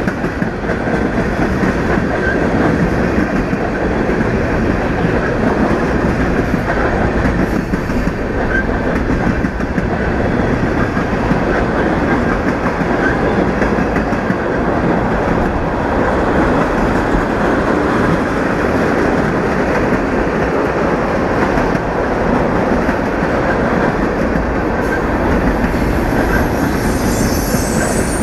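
Union Pacific freight train's cars rolling past, a steady loud rumble and clatter of wheels on rail. A high wheel squeal comes in near the end.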